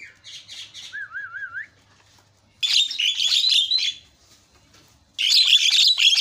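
Javan myna (jalak kebo) singing. A few quick chattering notes and a short wavering whistle come first, then two loud bursts of rapid, scratchy chattering, about two and a half seconds apart.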